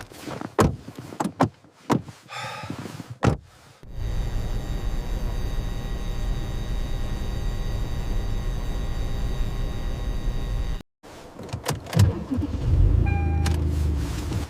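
Car sounds: a string of sharp clicks and knocks, then a steady mechanical hum with a whine for several seconds that cuts off suddenly, followed by more knocks and a low rumble near the end.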